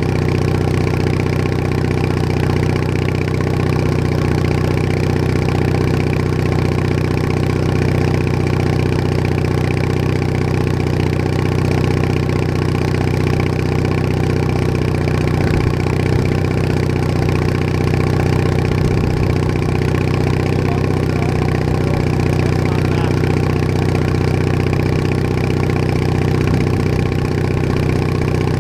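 Bolens HT20 garden tractor engine running steadily at an even speed as the tractor drives along.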